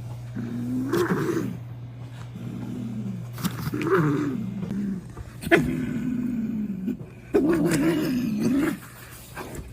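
A domestic cat yowling: several drawn-out, wavering calls one after another, over a steady low hum.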